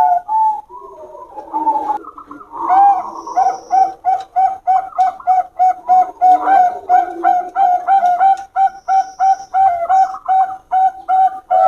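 Bangkok-type zebra doves (perkutut) cooing: after a softer, lower start, a long fast run of short, evenly repeated coos, about three a second.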